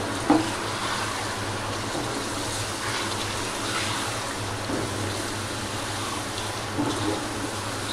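Chicken pieces sizzling in hot oil in a granite-coated wok, stirred with a wooden spatula that scrapes and knocks against the pan, with a sharp knock just after the start. A steady low hum runs underneath.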